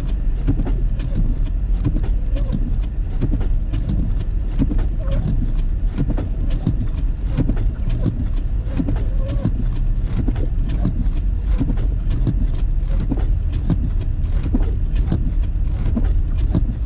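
Steady low rumble of a car driving, heard from inside the cabin, with a rapid, irregular patter of sharp ticks throughout.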